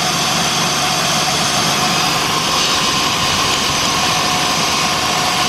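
2006 Jeep Grand Cherokee's 3.7-litre V6 idling steadily with a misfire on cylinder 3 (code P0303).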